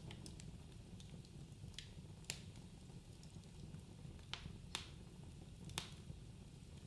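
Wood fire crackling in a fireplace: scattered sharp pops, half a dozen of them louder, over a low steady rumble of the burning logs.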